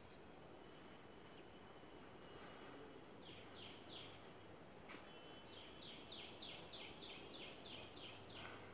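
A bird calling a series of short, quick falling notes: three just after three seconds in, then about ten in a row near the end, at roughly three to four a second. It sounds over a faint, steady background hiss.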